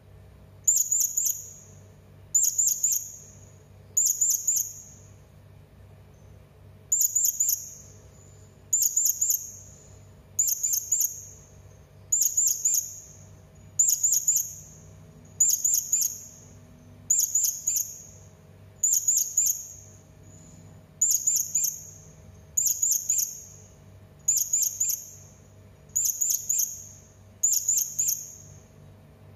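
Hanging parrot (serindit) calling: short, very high-pitched chirps, each a quick cluster of several notes, repeated about every one and a half to two seconds, with a longer pause a few seconds in. A faint low hum runs underneath.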